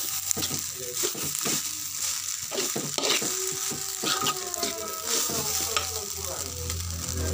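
Fried rice with cabbage sizzling in a metal wok while a metal spatula stirs and scrapes it, with frequent irregular clicks of the spatula against the pan.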